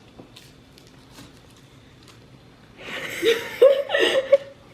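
Laughter in short breathy bursts for about a second and a half, starting a little under three seconds in, after a quiet stretch with a few faint taps.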